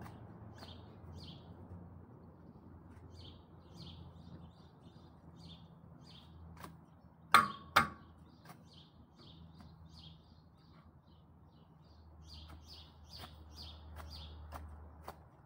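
A small bird chirping over and over in short high calls. Scattered light clicks sound throughout, and two loud sharp metallic clinks come close together about seven and a half seconds in, over a low steady hum.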